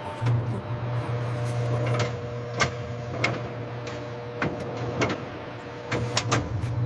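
Production-line machinery running: a steady low hum with irregular sharp clicks and clacks, several in quick succession near the end.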